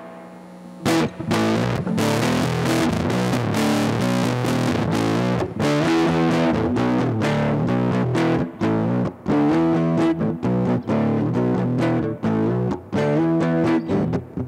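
Electric guitar, a Squier Starcaster, played through a Big Ear Pedals LOAF medium-gain fuzz pedal: distorted, woolly fuzz chords strummed in a rhythmic riff. The chords come in about a second in and turn choppy near the end.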